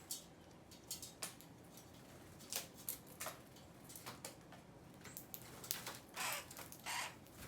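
Irregular light taps and clicks from birds pecking and scratching at seed, with two longer scratchy rustles near the end.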